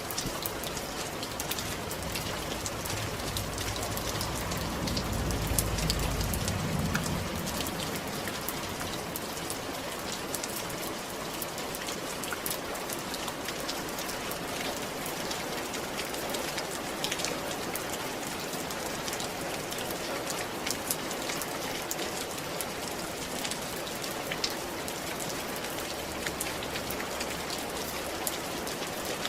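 Steady rain on a roof: an even hiss dotted with many separate drop ticks. A low rumble swells and fades between about four and seven seconds in.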